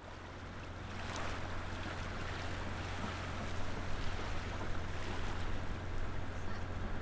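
Boat under way: water rushing and wind, over a steady low hum.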